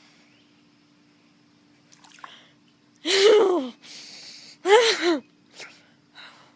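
A person's two loud gasping cries, one about three seconds in and one about five seconds in, each falling in pitch, with breathy noise between them.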